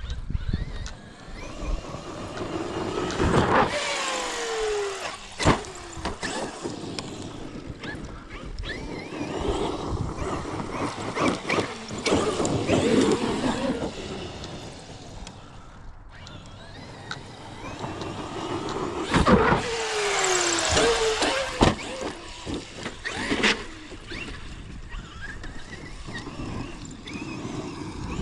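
Large electric RC monster truck driving on a dirt track on Sledgehammer tires: the motor whine falls in pitch as the throttle comes off, over a rough scrabbling noise. Sharp knocks come as the truck lands. The run of acceleration, whine and landing happens twice.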